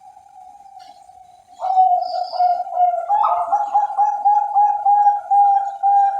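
Zebra dove (Bangkok-line perkutut) cooing: a soft, drawn-out coo, then from about a second and a half in a loud song of repeated coo notes, about three a second.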